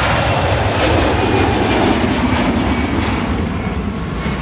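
Aircraft passing by with a loud, steady roar that drops in pitch and fades toward the end.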